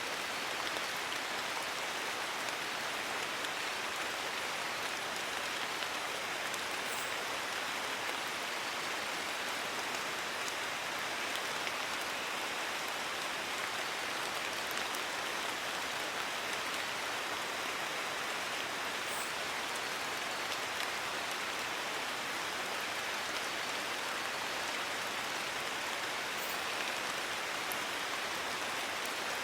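Steady rain falling on leaves in a forest, an even hiss of rainfall with a few faint drop ticks.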